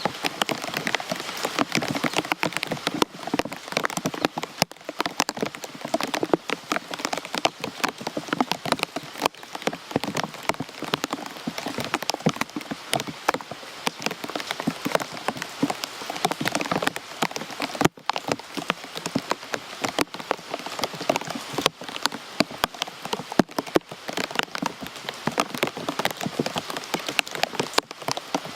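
Steady rain, with many close drops striking a surface as a dense patter of sharp ticks.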